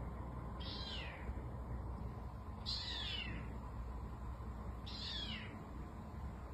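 Domestic cat meowing: three short, high-pitched meows, each falling in pitch, about two seconds apart.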